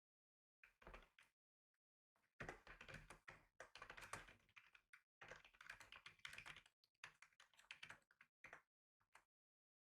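Typing on a computer keyboard: faint runs of rapid key clicks in several bursts, with short pauses between them, ending with a few single keystrokes near the end.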